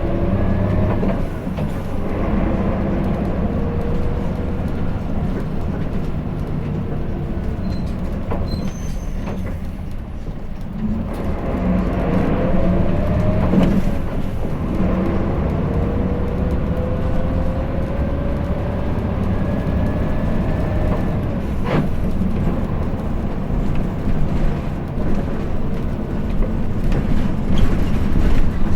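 Hino Blue Ribbon City diesel city bus heard from inside the cabin while driving: a steady low rumble with a whine that rises in pitch several times and then drops back, as when pulling through the gears. There is a brief lull about ten seconds in and a sharp click a little after twenty seconds.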